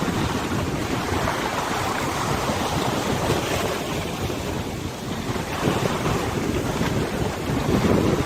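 Wind buffeting the microphone over a wide river, with the water splashing and lapping in a steady wash; the gusts swell a little near the end.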